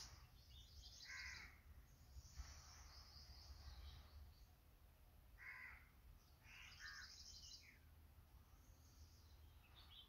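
Faint bird calls: three short mid-pitched calls, at about one second, five and a half seconds and seven seconds in, with patches of high chirping between them.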